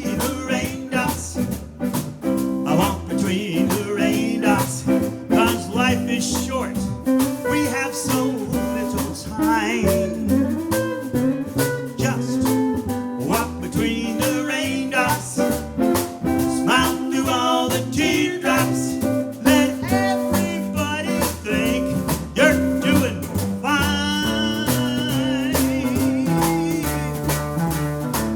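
Live band playing a jazz- and blues-tinged song with a steady beat, a melodic lead line over the band.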